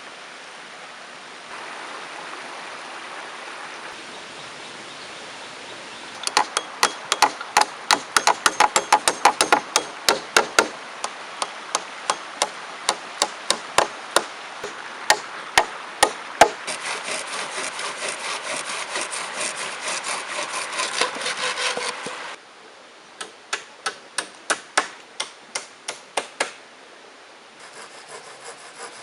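Wood being struck with a tool in quick runs of sharp knocks, about three a second, during shelter building. A rasping stretch of about five seconds comes in the middle, and a shorter run of knocks follows near the end. The first few seconds hold only the steady rush of river water.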